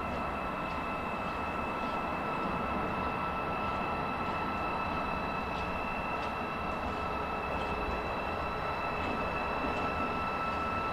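Freight train of tank wagons rolling past behind a locomotive: a steady rumble of wheels on rail, with a steady high-pitched whine over it.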